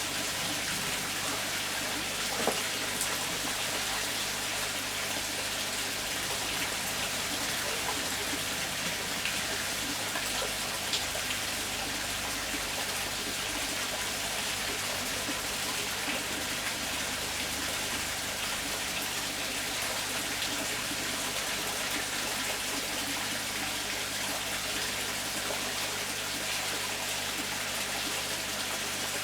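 Steady rush of water, an even hiss that stays level throughout, with a couple of faint clicks.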